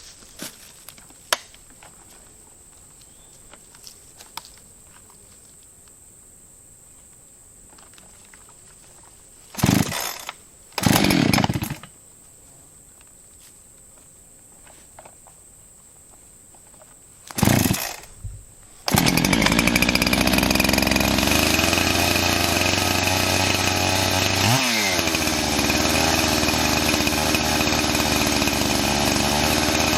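Husqvarna 385 XP two-stroke chainsaw being cold-started: after a few short bursts as it fires and dies, it catches and runs steadily, with one brief dip and recovery in engine speed partway through.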